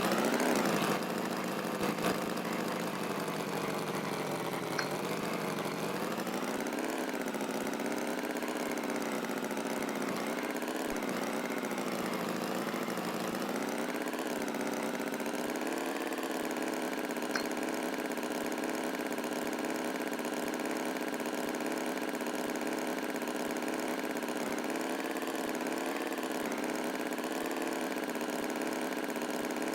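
Tractor engine idling steadily, its pitch wavering a little through the first half before settling into an even run.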